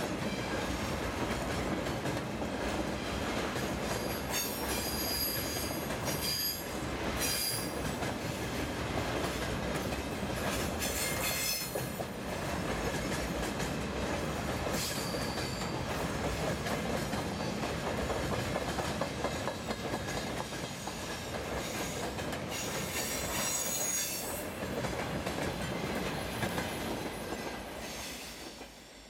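Freight train of loaded timber wagons rolling past, a steady rumble of wheels on rail broken by several brief high-pitched wheel squeals. The sound dies away near the end as the last wagon goes by.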